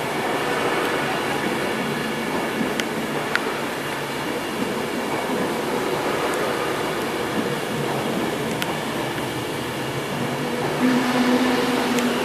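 Class 390 Pendolino electric multiple unit pulling out of a station, its coaches rolling past close by with a steady rumble and hum, with a few sharp clicks. A short low hum swells near the end.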